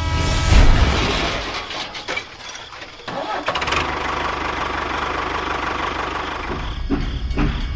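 An engine starting with a loud low burst, faltering briefly, then running steadily.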